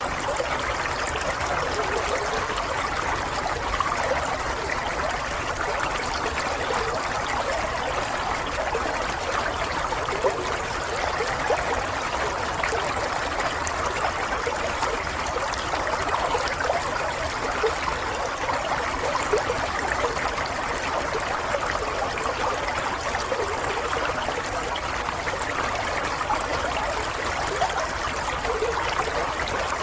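Running water flowing steadily, a continuous trickling and bubbling with no pauses.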